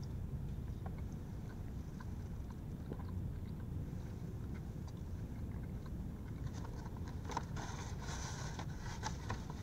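Quiet chewing of french fries inside a car cabin over a steady low rumble, with paper crinkling near the end as a hand goes into the paper bag.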